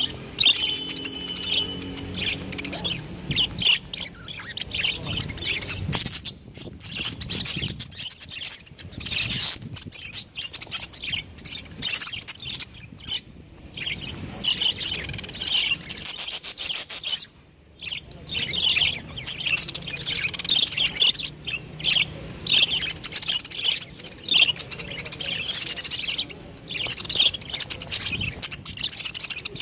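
Budgerigars chattering: a dense run of quick chirps and squawks, with a brief pause a little past halfway.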